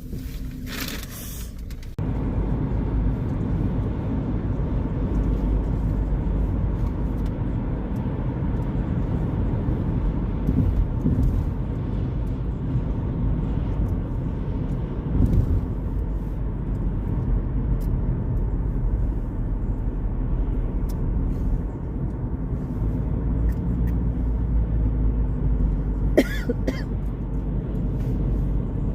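Car driving, a steady low road-and-engine rumble heard from inside the cabin, stepping up in loudness about two seconds in, with a few faint clicks.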